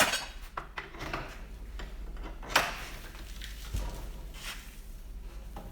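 Scattered knocks and clicks of sheet metal and hand tools being handled, with one sharper knock about two and a half seconds in, over a low steady hum.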